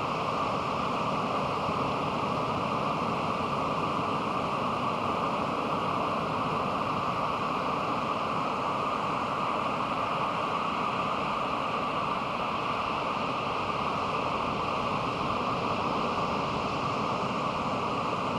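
Pacific Ocean surf breaking on a sandy beach, a steady wash of sound with no distinct single waves.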